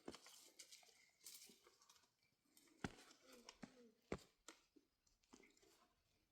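Near silence, broken by a few faint, short clicks and knocks.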